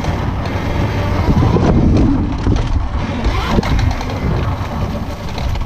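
Pit bike engine running, getting louder for a moment about two seconds in.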